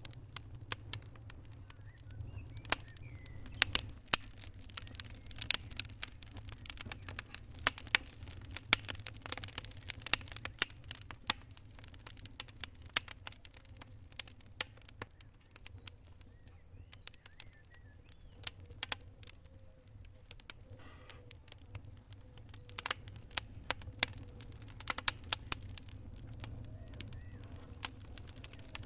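Fire crackling: many irregular sharp pops and snaps over a low steady rumble, thinning out for a while about halfway through and then coming thick again.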